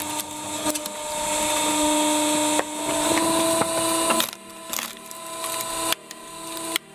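Motor-driven wood-cutting machine running with a steady whine, its pitch and loudness changing abruptly a few times.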